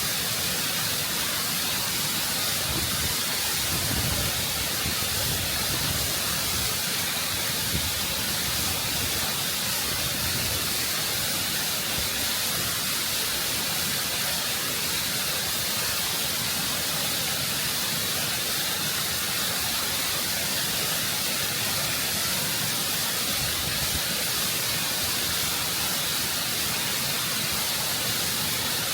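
Waterfall rushing over rock, close up: a constant, full roar of falling water, with a steady hiss of spray and a low rumble underneath.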